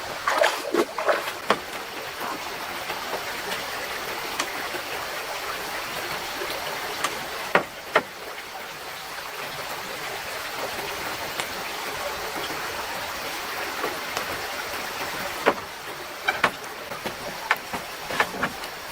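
A mountain stream running steadily, with scattered sharp clicks and knocks: a cluster near the start, two about halfway through, and several more near the end.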